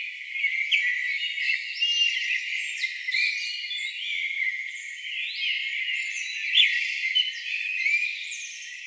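A chorus of several songbirds singing at once, a dense, unbroken tangle of chirps, trills and whistled glides. The sound is high and thin, with nothing in the low range.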